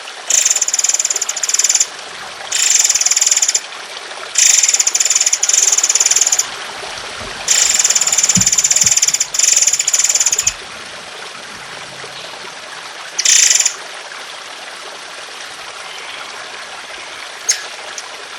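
Songbird giving harsh, rapid rattling trills ('tembakan') in repeated bursts of one to two seconds, high-pitched, over a steady trickle of running water. The trills stop about two-thirds of the way through, leaving the water and one short sharp chip near the end.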